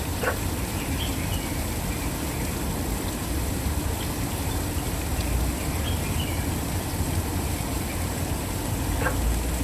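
Waterfall's steady rush of falling water, with a deep rumble underneath. Faint short bird calls come through it a few times.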